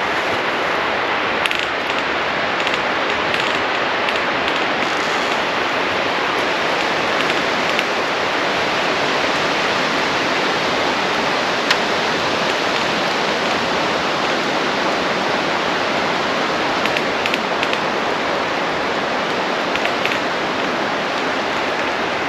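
Steady rushing noise, even and unchanging, with a few faint sharp crackles scattered through it.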